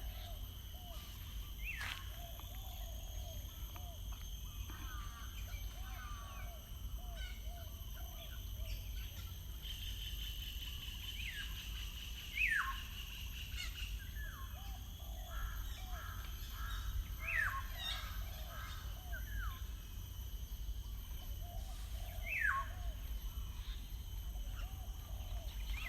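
Wild birds calling: loud, sharp calls that fall steeply in pitch come every few seconds, over runs of short, lower chirps repeated several times a second. A steady low rumble lies under them.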